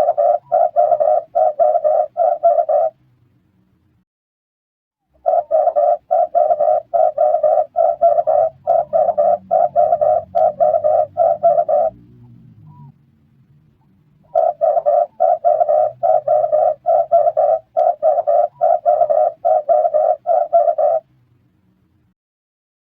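Red turtle dove cooing: runs of quick, evenly repeated low coos, about two a second, in three bouts with short pauses between.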